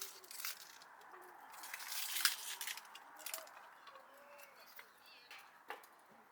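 Intermittent rustling and crinkling handling noise, heaviest in the first half, with a single sharp click near the end.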